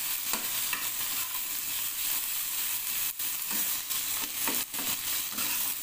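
Chopped tomato, onion and green chilli sizzling in mustard oil in a pan, with a steel spatula stirring and scraping against the pan in several short strokes.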